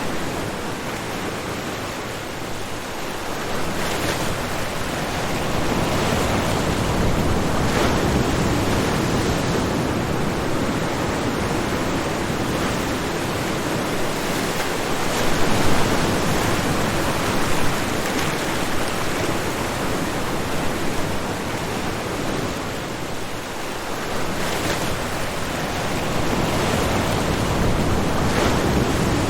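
Ocean waves breaking on a shore: a continuous wash of surf that swells and ebbs slowly, with brief louder crashes now and then.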